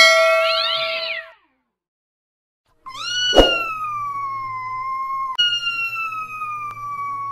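A short chiming sound effect with rising sweeps in the first second. Then, after a pause, a domestic cat gives two long, drawn-out yowls, each slowly falling in pitch. The first yowl starts about three seconds in and has a sharp knock just after it begins; the second starts about five seconds in.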